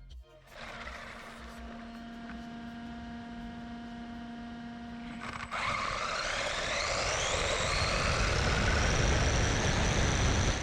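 Arrma Kraton 6S RC car's brushless motor: a steady hum, then about five and a half seconds in a sudden louder run with a whine that rises in pitch and levels off high as the car accelerates.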